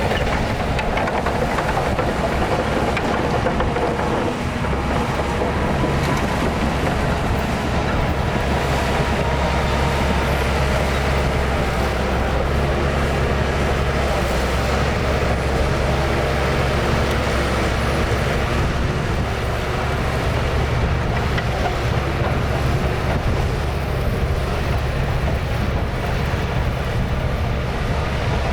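Diesel engine of a Shantui DH17C2 crawler bulldozer running steadily under load with a low, even hum.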